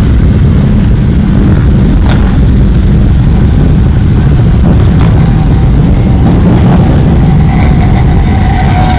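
Motorcycles riding past in a steady stream, engines running loudly, with one engine revving up near the end.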